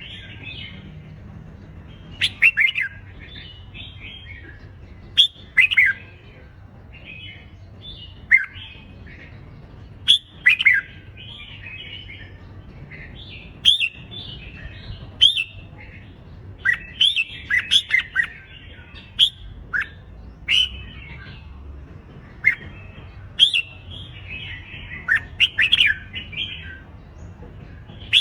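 Red-whiskered bulbuls in competitive song: short, loud, warbling whistled phrases recurring every second or two, with sharp clicking notes among them.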